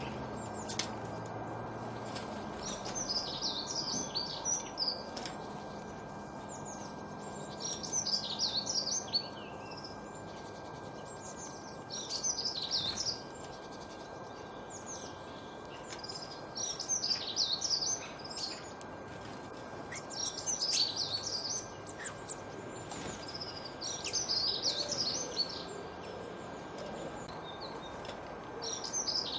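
A songbird singing short bursts of quick high chirps, one phrase about every four seconds, over a steady background hiss.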